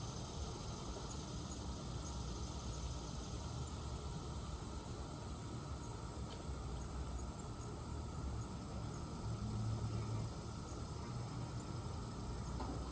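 Steady high-pitched insect chorus, a continuous trill that does not change, over a low background rumble that swells briefly about two-thirds of the way through.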